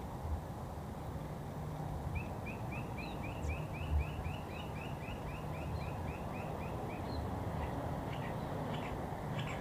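A bird calling a fast, even series of short rising notes, about four a second, starting about two seconds in and lasting about five seconds, over a steady low outdoor rumble.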